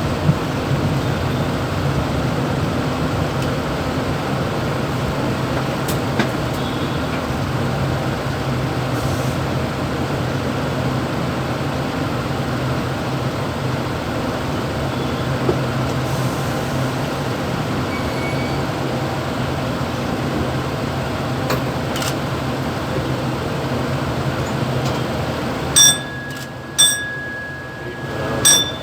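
Mumbai suburban EMU local train running between stations, heard from the motorman's cab: a steady rumbling run with a low hum. Near the end the running noise drops and a few short, sharp high-pitched blasts sound.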